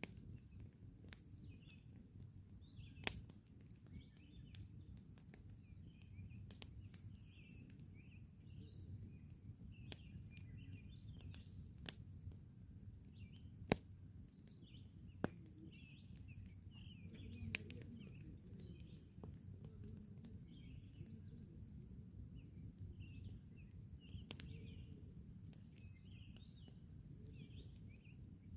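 Campfire crackling: scattered sharp pops from the burning wood, the loudest about halfway through, over a low steady rumble. Small birds chirp repeatedly throughout.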